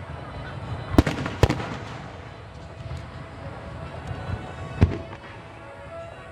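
Aerial firework shells bursting: a sharp boom about a second in, another half a second later and a third near the end, with lighter crackling between. Music plays underneath.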